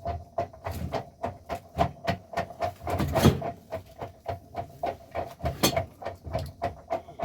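Rapid, uneven series of knocks or strikes, about three a second, over a faint steady hum. The strongest blows come a little past three seconds in and again at five and a half seconds.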